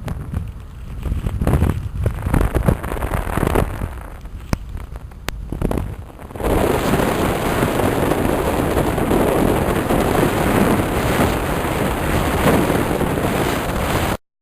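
Wind buffeting the microphone of a moving motorcycle over a low rumble of engine and road. About six seconds in, this turns abruptly into a loud, steady rushing hiss of wind and rain, which cuts off suddenly just before the end.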